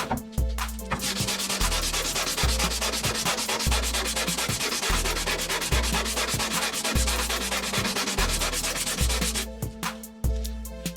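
A brake pad being rubbed back and forth on 120-grit sandpaper on a flat surface, a continuous rasping from about a second in that stops near the end, to strip the glazed metal-fibre layer off the pad face. Background music plays underneath.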